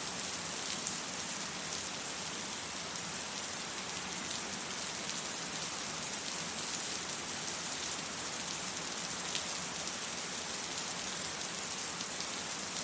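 Steady rainfall: an even hiss of rain with fine drop patter on hard surfaces.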